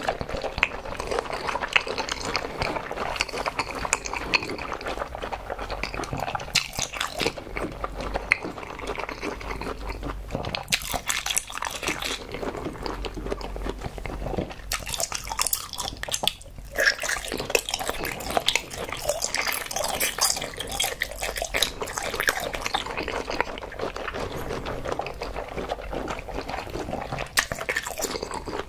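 Close-miked wet chewing of a soft, translucent jelly: sticky smacking and squelching mouth sounds made of many small clicks.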